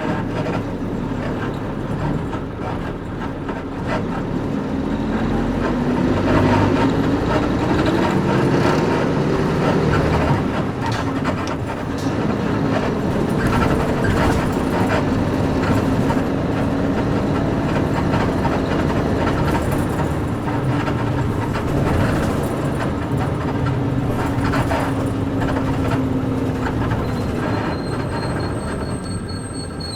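Nissan Diesel KC-UA460LSN bus's PG6 diesel engine running under way, heard from inside the cabin, its pitch rising in the first few seconds, holding steady, then dropping near the end, with creaks and rattles from the leaf-spring suspension throughout. In the last couple of seconds a high, thin brake squeal begins as the bus slows.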